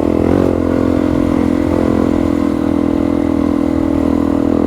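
Suzuki DR-Z400E's single-cylinder four-stroke engine running steadily while riding, with a brief change in pitch about half a second in.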